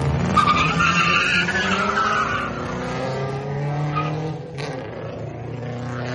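A car's tyres squealing hard for about two seconds as it drives off, over the steady note of its engine.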